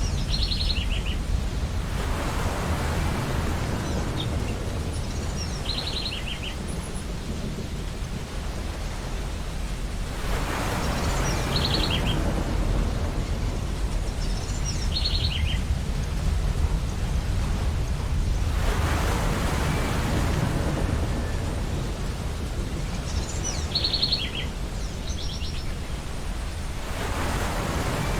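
Ocean waves breaking and washing up a beach about every eight seconds over a steady low surf rumble, with seagulls giving short calls several times.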